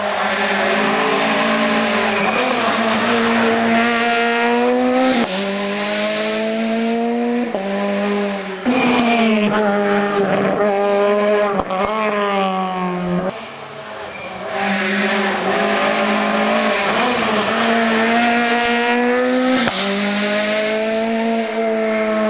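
Rally car engines running at full throttle, the pitch climbing under hard acceleration and dropping sharply at each gear change, several times over.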